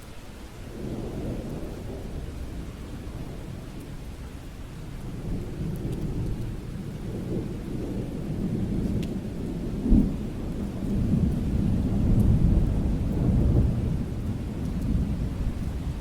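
Thunder rolling over steady rain: a low rumble swells about a second in, a sharp crack comes about ten seconds in, and long rumbles roll on after it.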